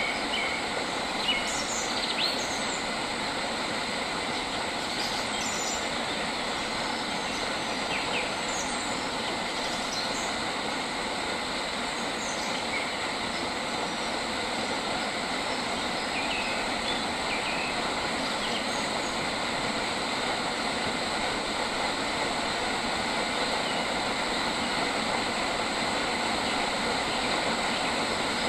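Birds giving short chirps now and then, most often in the first ten seconds, over a loud, steady, rushing background with a faint continuous high whine.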